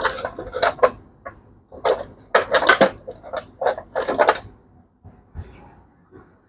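Metal tools clinking and clattering as someone rummages for a long screwdriver, a quick run of sharp knocks over the first four seconds or so, then quieter.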